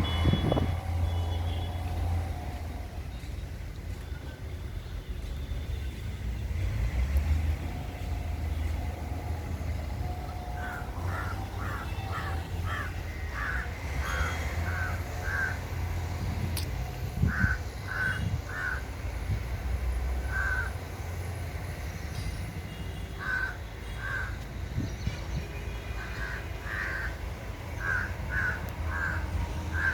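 A crow cawing repeatedly in short calls, in groups of two to five, from about ten seconds in, over the steady low hum of an idling engine.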